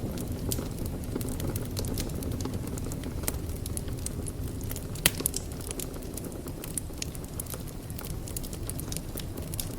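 Wood fire burning in a fireplace: a steady low rumble of flames under irregular crackling and snapping, with one sharper pop about five seconds in.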